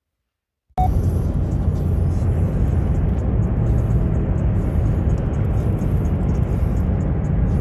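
Steady road and engine noise inside a moving car, starting abruptly about a second in after silence.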